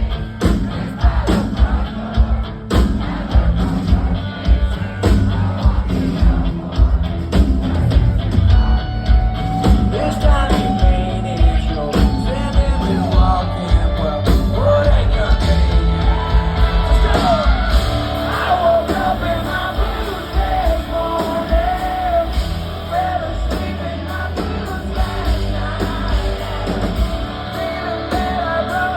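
Live country-rock band playing loud through a venue PA, with drums keeping a steady beat under amplified guitars and a melody line.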